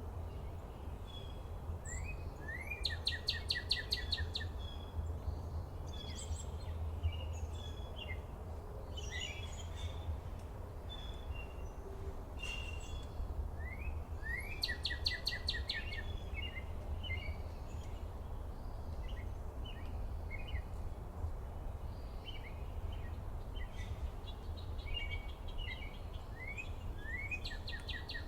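Wild songbirds singing and chirping: a song phrase with a fast trill comes three times, about every twelve seconds, between scattered short chirps, over a steady low rumble.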